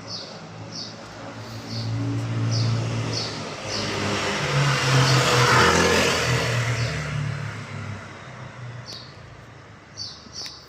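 A car driving past: its engine hum and tyre noise build up, are loudest about halfway through, then fade away. A bird chirps over it.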